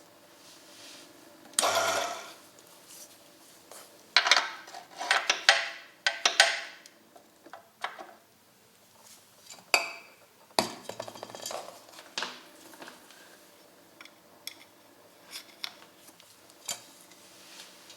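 Irregular metallic clinks and knocks of small metal parts being handled and set down, with rustling in between. The loudest clatter comes in clusters about two seconds in, around four to six seconds, and near ten seconds.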